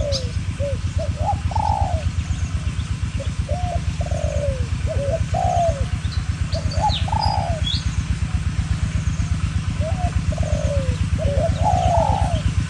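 Spotted doves cooing back and forth in repeated deep phrases, a wild dove answering a decoy dove, with the calls sometimes overlapping. A steady, low, rapid throbbing runs underneath, and a small bird chirps a few times about two-thirds of the way in.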